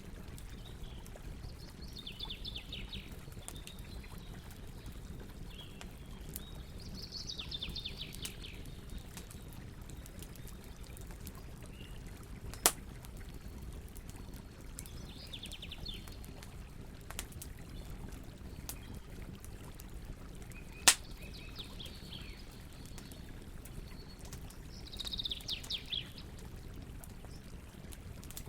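Campfire burning with a steady low crackle and two sharp loud pops, one about halfway through and one about three quarters of the way in. A bird gives a short trilled call five times, a few seconds apart.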